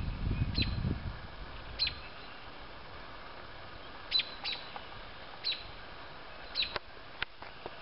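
A bird in bare trees giving short, sharp chip-like call notes, about seven of them spaced irregularly.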